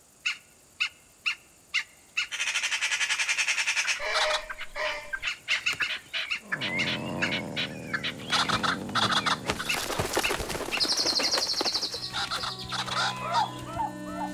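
Wild bird calls: a few short sharp chirps, then a fast rattling chatter lasting about two seconds, then a jumble of chirps and calls. Soft music with held notes comes in near the end.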